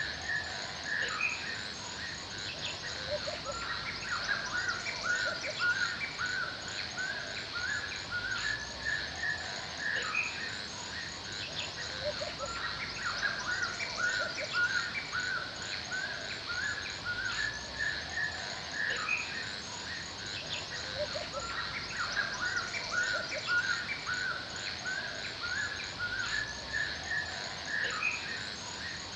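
Forest ambience: many birds chirping and calling continuously over a steady high insect hum, the same run of calls coming round again about every nine seconds.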